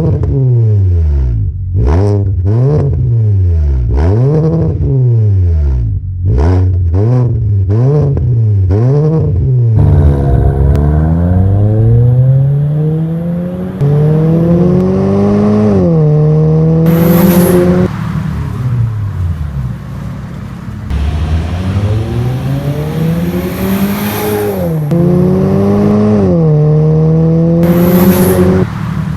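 Hyundai Sonata engine through an aftermarket cat-back exhaust, first revved in a series of quick blips. From about ten seconds in the car accelerates twice, its pitch climbing and dropping back at each gear change.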